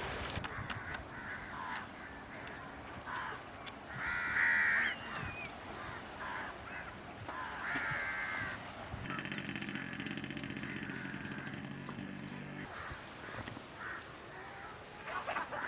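Two loud, harsh bird calls, about four and eight seconds in, over steady outdoor background noise. From about nine seconds in, a buzzing, rapidly pulsing mechanical sound runs for roughly three and a half seconds, then stops.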